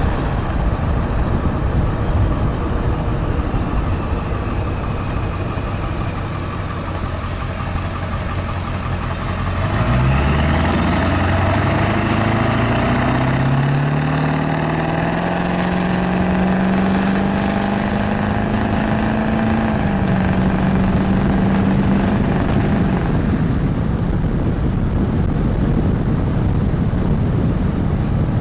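2002 Ford 7.3 Powerstroke V8 turbo-diesel with a straight-pipe exhaust, running low and steady at first, then accelerating about ten seconds in, its note rising for several seconds with a high whistle climbing alongside. The pitch drops back a little around twenty seconds and the engine note then fades.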